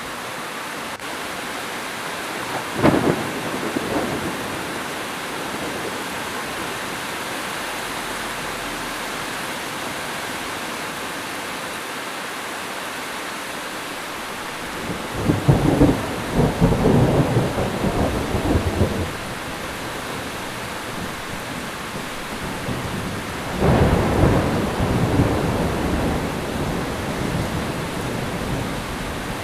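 Heavy rain falling steadily with thunder: a sharp crack about three seconds in, then two longer rumbles of thunder, one starting about fifteen seconds in and another near twenty-four seconds.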